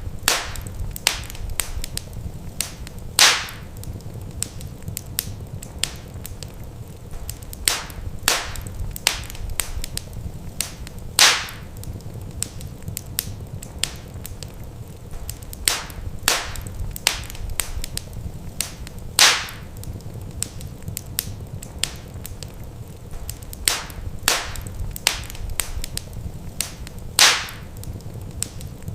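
Wood fire crackling: sharp snaps and pops over a low, steady rumble. A few louder pops stand out, and the same pattern of pops comes back every eight seconds, a short repeating loop.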